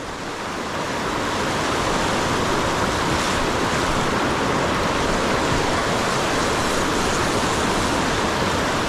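Steady rush of river current, an even roar of moving water that grows louder over the first couple of seconds and then holds.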